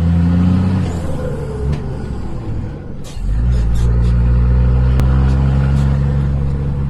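Scania 124 truck's straight-six diesel running through an open, straight-through exhaust pipe. It is revved, drops back about a second in, then is revved up again about three seconds in and held at a steady high note, with a few short hisses around that point.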